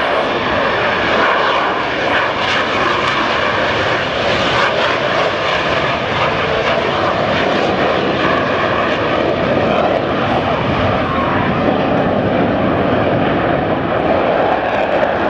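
Blue Angels F/A-18 Hornet jet engines running steadily loud through a slow, nose-high high-alpha pass.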